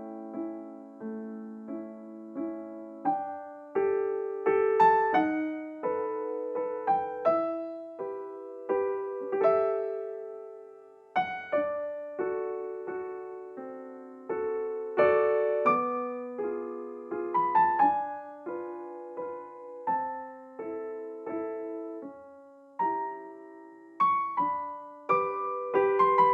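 Background music: a slow, gentle piano melody over chords, each note struck and fading away.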